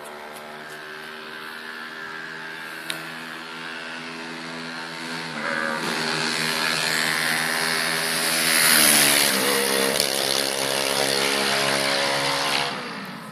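Small single-cylinder motorcycle engine, a STOMP YX140, passing by at speed: it grows louder as it approaches, its pitch drops as it goes past about nine to ten seconds in, and it fades away quickly near the end.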